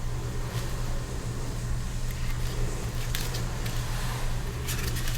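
Steady low hum of workshop background, such as a fan or electrical equipment, with a few faint handling clicks.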